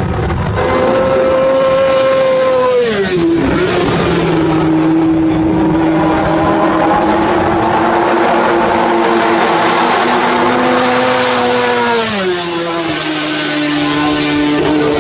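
Superbike racing motorcycles at full speed passing close by, two in turn, their engines' pitch dropping sharply as each goes past, about three seconds in and again near the end.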